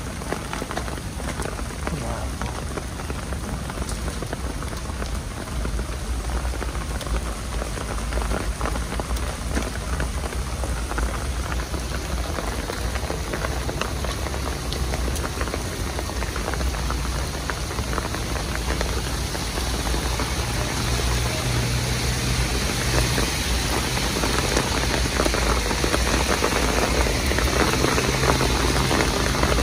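Heavy downpour of rain pouring steadily, growing louder toward the end. From about two-thirds through, a low steady hum joins it.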